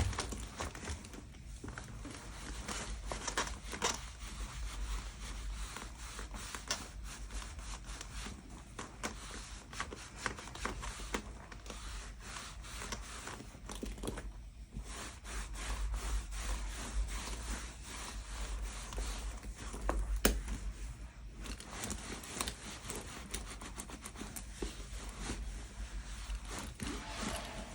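Hands working on a leather handbag: steady rubbing and scraping of the leather, with many small irregular clicks and taps.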